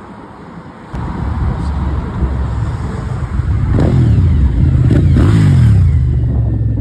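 Car engine revving hard as the car accelerates away, a low exhaust rumble that comes in suddenly about a second in and builds, with the revs rising and falling and loudest near the end.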